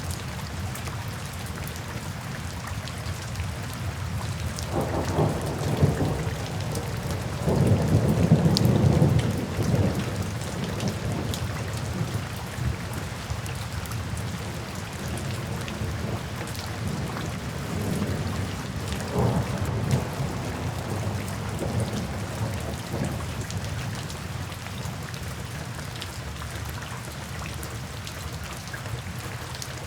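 Steady rain falling, with soft rolls of distant thunder rumbling low. One roll comes about five seconds in and the loudest a couple of seconds later, around eight seconds; a softer spell follows near twenty seconds.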